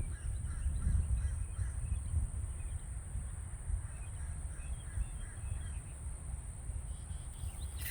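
Outdoor rumble, like wind on the microphone, with faint short bird calls repeating through it and a steady high-pitched tone.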